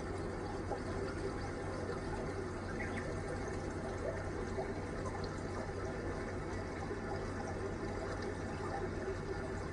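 Steady running water with a faint low hum beneath it.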